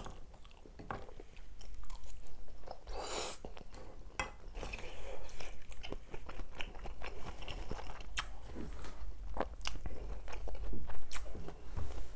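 A person chewing food close to the microphone, with many crisp crunches scattered through the bites.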